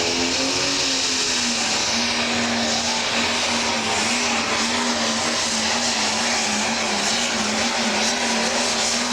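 Pro stock pulling tractor's turbocharged diesel engine running hard, holding a steady high note with a slight waver under a loud, hissing rush.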